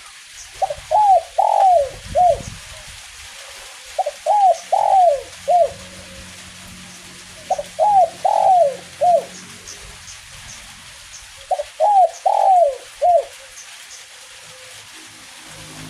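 Spotted dove (derkuku/tekukur) cooing its song, four phrases of several short arched coos each, repeated about every four seconds, over a steady patter of light drizzle.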